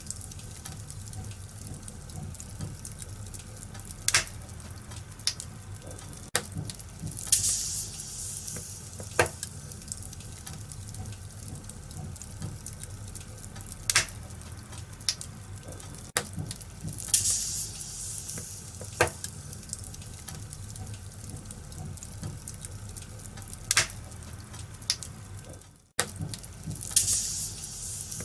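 Wood fire crackling in a fireplace: a steady crackle with sharp, scattered pops and a few short bursts of hissing. The sound briefly drops out near the end and then comes back.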